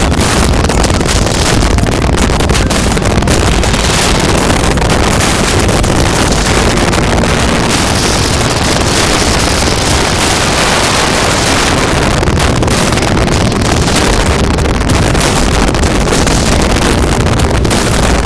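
Wind rushing over the microphone of a moving motorcycle, with the engine's steady low rumble underneath, all at a constant loud level.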